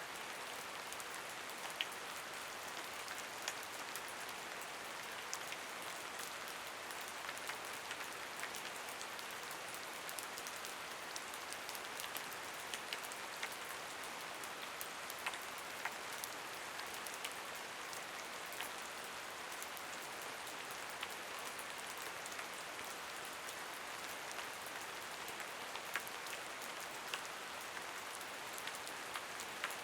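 Steady rain falling, an even hiss with scattered sharper drip ticks throughout.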